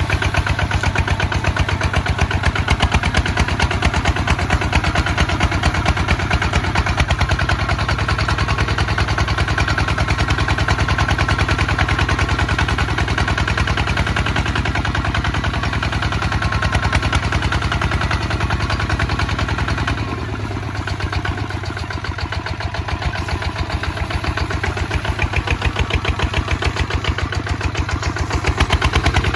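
Kubota ZT155 DI single-cylinder diesel tractor engine running with a fast, even beat. About twenty seconds in it goes briefly quieter and duller, then picks back up.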